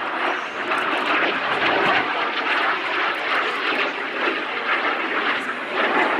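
Hunting Jet Provost jet trainer flying its display, a steady, loud jet noise rising and falling slightly as it passes.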